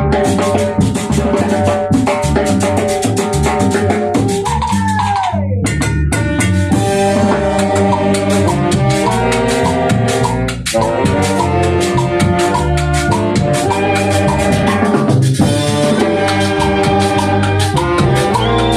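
A band playing dance music: a drum kit keeps the beat under a bass line and held melodic phrases, with a short break in the sound about ten and a half seconds in.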